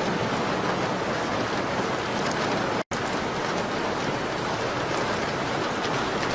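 Steady rain falling on a window pane, an even hiss with faint scattered ticks. The sound drops out for an instant about three seconds in.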